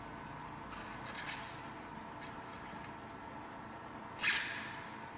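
Handling noises over a steady faint hum: a soft rustle about a second in, then one sharp, louder knock or scrape about four seconds in that dies away quickly.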